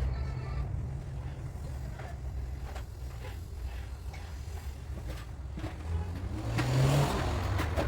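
A motor vehicle's engine running with a steady low rumble, rising briefly in pitch and level near the end.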